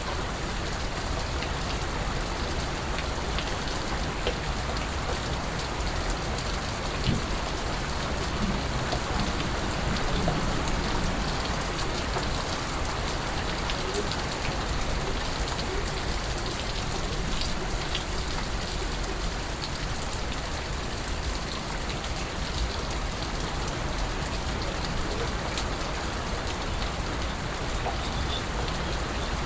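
Steady rain falling, with scattered individual drips landing close by.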